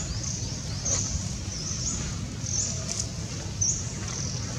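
A bird's short, high chirps, repeated about once a second, over a steady low rumble.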